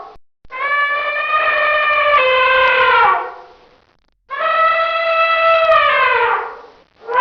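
Elephant trumpeting: two long, brassy calls of about three seconds each, a second apart, each sliding down in pitch as it ends.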